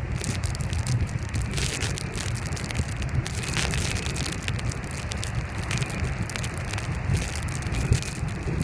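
Strong wind buffeting the microphone with an uneven low rumble, over a constant crackling hiss of breaking surf and sea spray.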